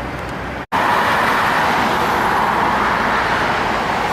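Road traffic with a low engine hum, cut off by a split-second gap less than a second in. After the gap, louder, steadier noise of a vehicle going past close by.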